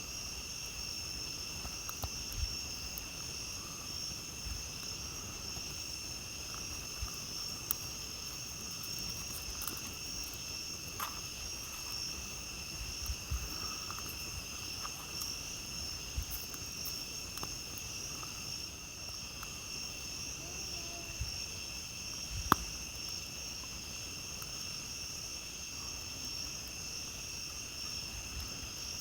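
Steady high-pitched chorus of night insects, with scattered sharp crackles and pops from a wood campfire. One pop about three-quarters of the way through is louder than the rest.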